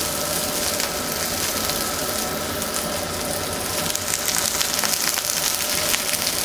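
Rava-coated brinjal slices frying in oil on a hot tawa: a steady sizzling hiss with small crackles, the oil just spooned over them.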